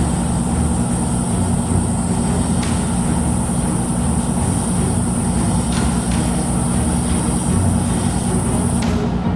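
Steady low mechanical hum with an even high-pitched hiss, unchanging throughout, with a few faint ticks.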